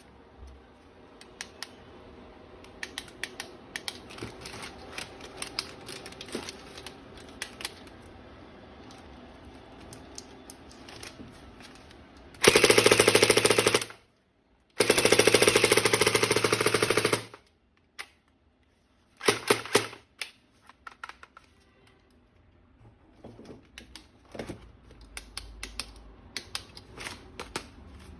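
Plastic clicks and rattles of a toy gun being handled, then the toy gun fires in rapid-fire bursts: two long loud bursts about halfway through, a second or two each, and a short third burst a little later. Scattered clicks follow.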